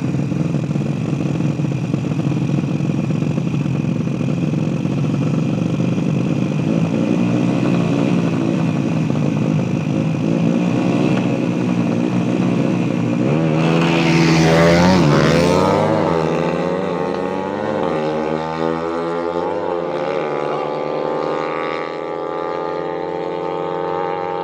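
Small-displacement mini motorbike engine running steadily, then revved hard about halfway through before settling back with its pitch rising and falling.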